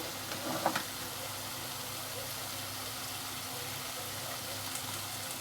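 Steady mechanical hum, with a brief clink under a second in.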